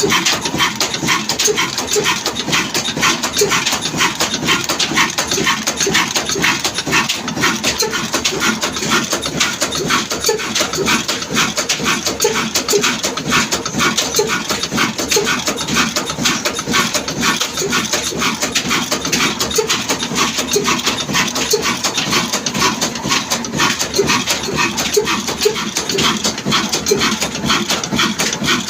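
1947 Ruston Hornsby diesel engine running steadily, a loud, continuous, rapid mechanical clatter.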